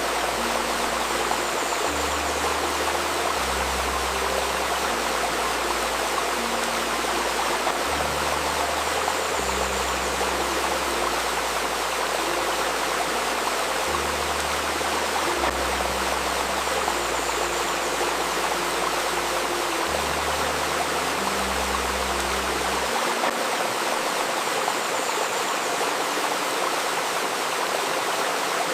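River stream babbling steadily. Under it, soft ambient music of slow, low held notes changes every second or two, and the lowest notes drop out about 23 seconds in.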